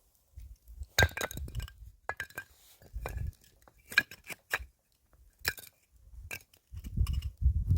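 Cookware and tableware clinking: a few sharp, briefly ringing clinks, about a second in, around four seconds and around five and a half seconds, with lighter taps and low handling thuds between.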